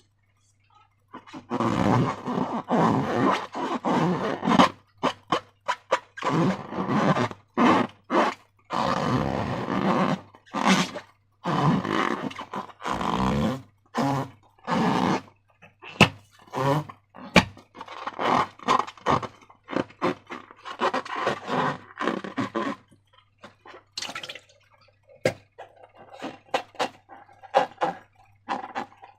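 Slime being squeezed and worked by hand, wet squelching and crackling in irregular bursts with short pauses, with a few sharp snaps among them. A low steady hum runs underneath.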